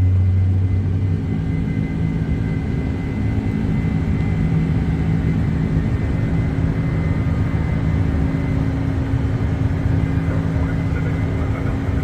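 Boeing 747's four turbofan engines running with a steady low drone and a faint high whine; a deeper hum drops away about a second in.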